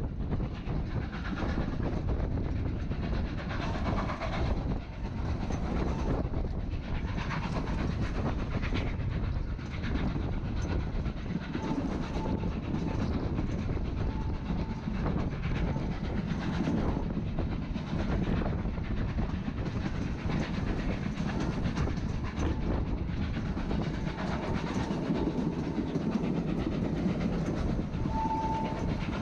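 Narrow-gauge passenger train running along the track, a steady rumble with wheels clicking over the rail joints, heard from on board. A short high tone sounds shortly before the end.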